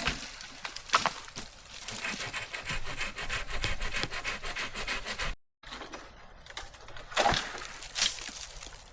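Hand saw cutting through wood with quick, even rasping strokes. After a brief break, a couple of sharp wooden knocks follow.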